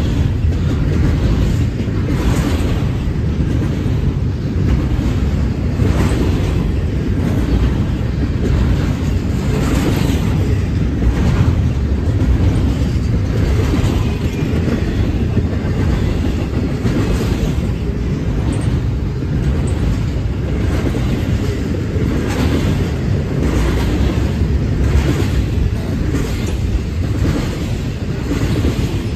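Intermodal freight train's double-stack well cars rolling past close by: a steady heavy rumble with the wheels clacking over the rail every second or two.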